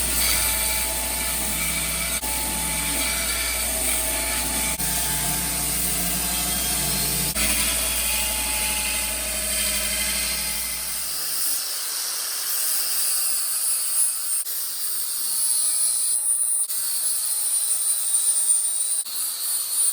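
Power tool running steadily in a metal shop, with a high whine. A low hum under it stops suddenly about eleven seconds in.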